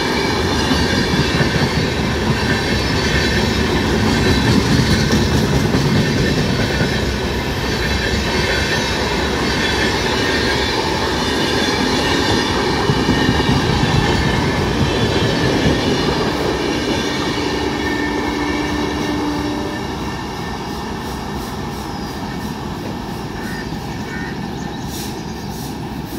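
Express train coaches passing close at speed: a loud, steady rush of wheels on rails with high ringing tones from the wheels. About twenty seconds in, the sound drops as the last coach goes by and the train draws away.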